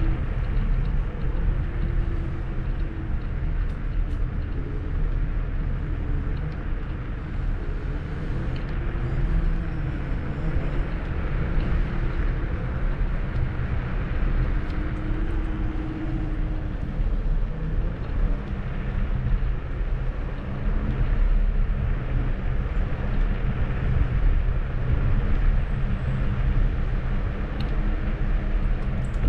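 Kugoo G2 Max electric scooter on the move: a steady rumble of wind on the microphone and tyres on the path, with a faint hum that wavers in pitch.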